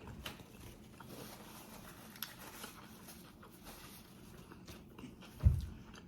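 Person chewing a mouthful of consommé-dipped birria taco close to the microphone, with small wet mouth clicks. A single short low thump about five and a half seconds in.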